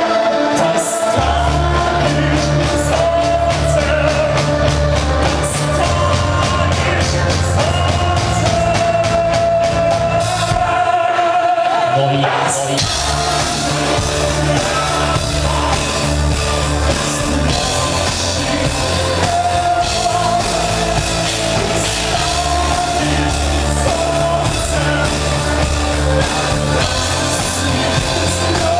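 Rock music with singing, played by a band: the bass and drums come in about a second in, drop out briefly around the middle, then the full band returns.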